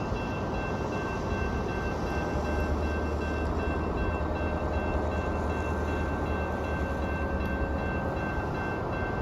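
Amtrak ALC-42 Siemens Charger diesel-electric locomotive idling at the platform: a steady deep engine rumble that swells for several seconds, with a constant thin high whine over it.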